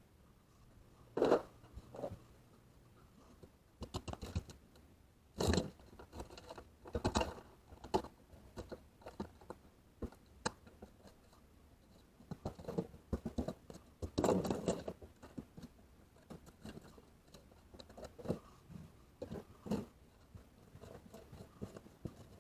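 Irregular handling noise: scattered clicks, knocks and scrapes of parts being moved and worked by hand.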